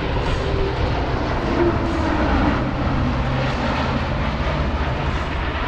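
Jet noise from a C-17 Globemaster III's four Pratt & Whitney F117 turbofan engines during a flyby: a loud, steady rushing sound with a deep low rumble.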